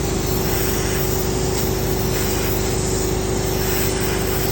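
Gas torch hissing steadily as it heats the aluminum cylinder head around a broken exhaust-manifold stud to loosen it, over a constant mechanical hum.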